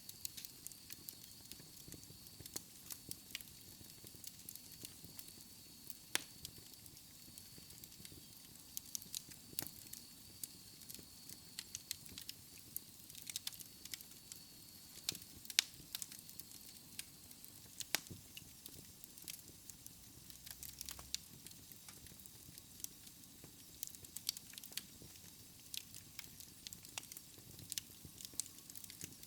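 Wood fire crackling in a fireplace: irregular sharp pops and snaps over a soft steady hiss, with a faint thin high whistle through the first half.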